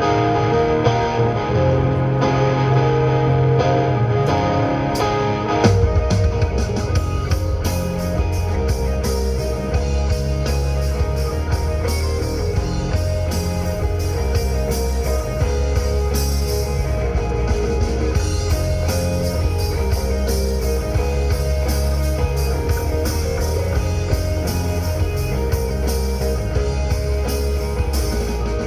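Live rock band playing a song's instrumental intro: guitar leads alone at first, then the full band comes in about six seconds in with a much heavier low end.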